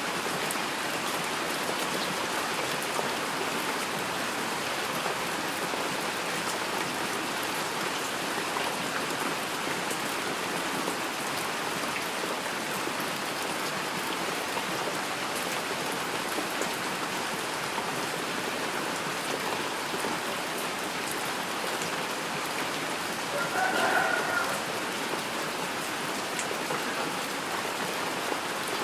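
Steady heavy rain falling on a surface, a dense even hiss of many drops. About three-quarters of the way through, a brief pitched sound rises out of it for under a second.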